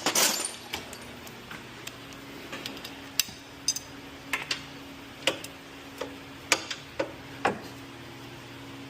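Scattered sharp metallic clicks and clinks of hand tools working a front-suspension bolt, spaced irregularly about a second apart. A faint steady hum runs underneath from about two seconds in.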